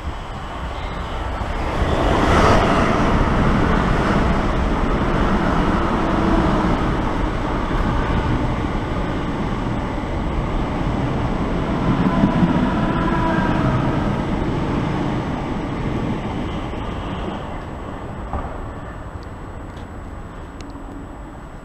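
Electric passenger train running through the station without stopping: the rumble of wheels on rails swells quickly about two seconds in, stays loud for around twelve seconds with a faint whine midway, then fades away.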